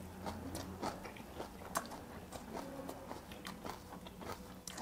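A man chewing a mouthful of bossam, boiled pork with raw oyster and garlic wrapped in kimchi, close to a clip-on microphone. Irregular chewing clicks come about three times a second.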